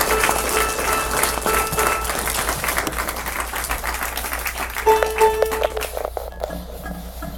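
Audience applause dying away between songs, with a few stray instrument notes sounding over it.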